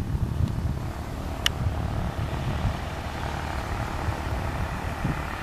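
Propeller airplane engine running steadily, with wind buffeting the microphone; a brief high chirp about a second and a half in.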